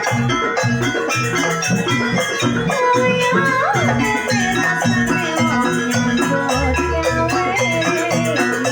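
Live jaranan ensemble music: tuned metal percussion and drums playing continuously under a wavering melody line.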